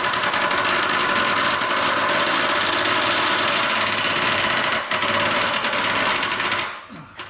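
Impact wrench hammering steadily on a stubborn bolt, with a short break about five seconds in; the bolt is only just starting to loosen.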